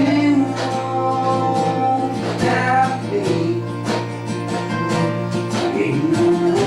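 Acoustic country band playing live, led by strummed acoustic guitar over a steady low note, with a melody line rising and falling on top.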